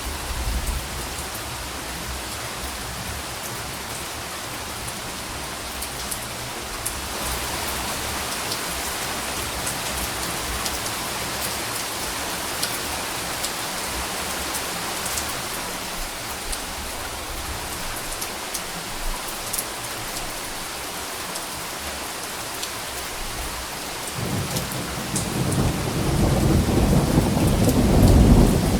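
Steady rain falling, with scattered drops pattering on a surface. Near the end a low roll of thunder builds and grows louder.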